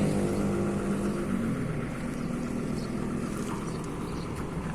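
Bus engine running steadily, its sound fading gradually as it draws away.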